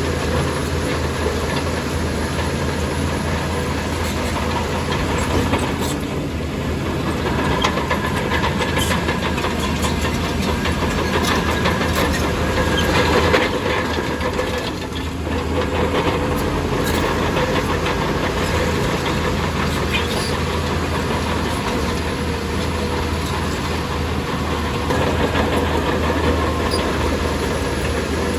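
Diesel engine of heavy earthmoving machinery running steadily, with a short swell about 13 seconds in and a brief dip just after.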